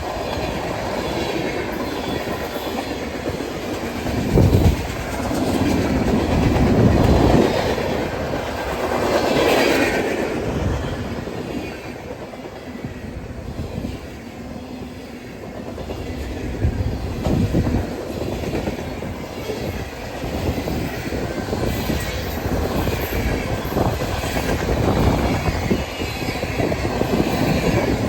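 Railroad cars rolling past, their wheels clacking over rail joints over a steady rumble that swells and eases as the cars go by.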